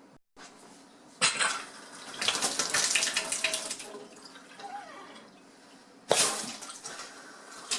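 Kitchen faucet turned on and water running into the sink, in two spells: the first starts about a second in and tapers off, the second starts suddenly near the end and fades. This is the faucet being run after its new cartridge is fitted.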